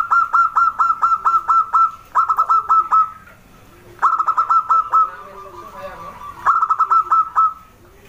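Zebra dove (perkutut) singing: four bursts of rapid staccato cooing notes, about four or five a second, the first and longest running nearly three seconds.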